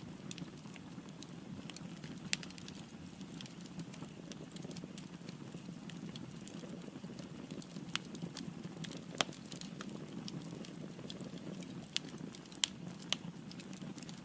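Firewood burning in a fireplace: a steady low rush of flames with scattered sharp crackles and pops, a few louder snaps among them.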